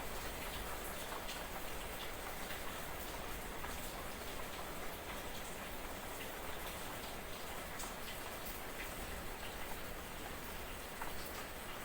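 Light drizzle falling steadily, with scattered single drops ticking sharply on a surface.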